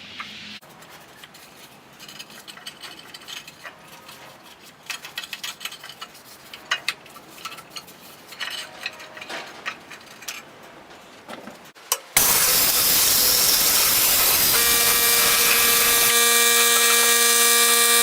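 Faint clicks and knocks of handling, then about twelve seconds in a loud steady machine noise starts abruptly: a rushing hiss with a steady whine that joins a couple of seconds later.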